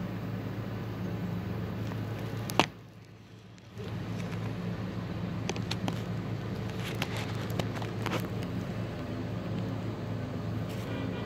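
Steady low hum of a vehicle engine idling. A sharp click comes about two and a half seconds in, the sound drops out for about a second, and a few light clicks follow later.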